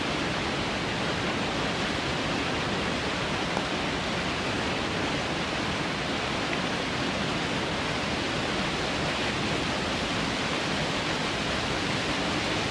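Waterfall on a mountain stream, pouring steadily with an even, unbroken rush of water.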